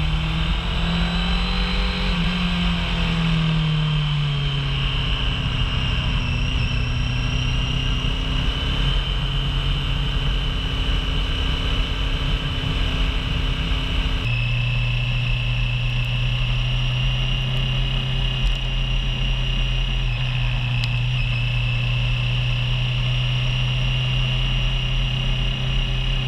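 Honda CBR600 F4i's inline-four engine running under way, with wind and road noise over it. The engine note drops a couple of seconds in, then holds steady, and it shifts abruptly to another steady note about halfway through.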